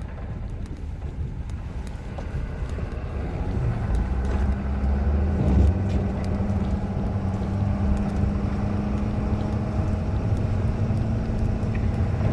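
2016 Ford F-250's 6.7L Powerstroke V8 turbo-diesel engine running as the plow truck drives, a low rumble that grows louder about four seconds in and settles into a steady drone as it takes on more load.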